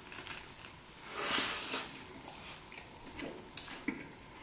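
Two people chewing bites of egg sandwich on toasted whole-wheat bread, with soft small mouth clicks and one short breathy hiss about a second in.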